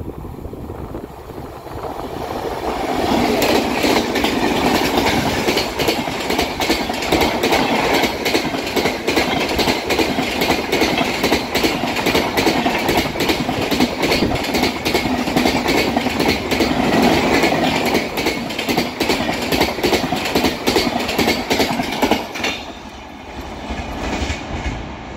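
Express train of LHB coaches passing at speed: its wheels beat out a rapid clickety-clack over the track joints. The sound builds about two to three seconds in, then drops off suddenly near the end as the last coach clears, leaving a fainter rumble.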